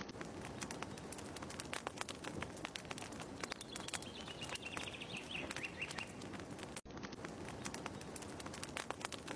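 Fire crackling with small sharp snaps, with birds chirping in the background, a run of chirps in the middle. The sound cuts out for an instant about seven seconds in.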